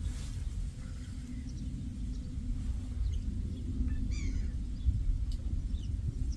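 Low wind rumble on the microphone at a lakeshore, with a few short bird calls over it; a quick run of chirps stands out about four seconds in.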